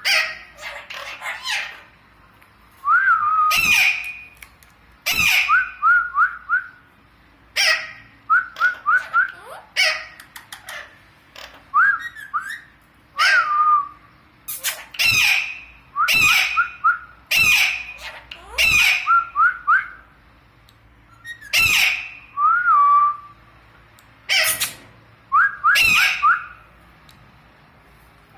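Parrot calling: loud harsh squawks every second or two, alternating with quick runs of three or four short rising whistled notes.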